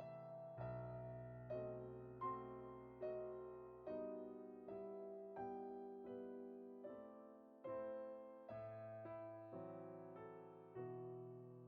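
Quiet background piano music: slow single notes and chords struck about once or twice a second, each fading away.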